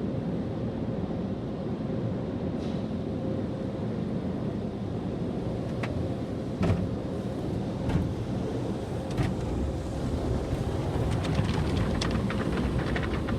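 Automatic car wash machinery running, heard from inside the car: a steady rumble with a faint hum, a few sharp knocks around the middle, and from about ten seconds in a fast rattle of many small hits on the car body.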